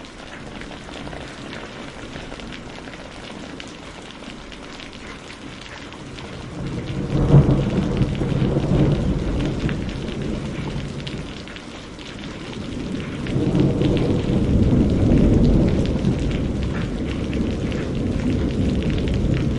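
Steady rain with fine crackling, joined by two long rolls of thunder: the first breaks with a sharp crack about seven seconds in and rumbles away, the second swells up near the end.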